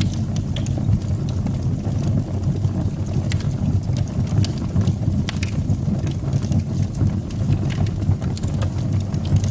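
Fire burning in a fireplace: a steady low rumble of flames with scattered, irregular crackles and pops.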